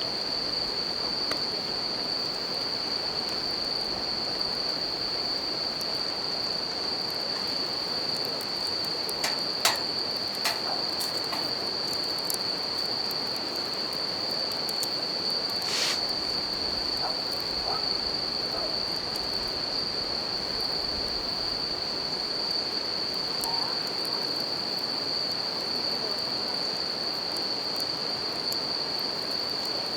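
Bell crickets (suzumushi) giving a steady high ringing over the even rush of a river, with a few sharp crackles from a wood campfire, the loudest about ten seconds in.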